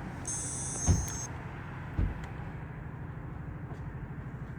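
Car engine idling steadily. A short high-pitched electronic tone sounds near the start, and two dull thumps come about one and two seconds in.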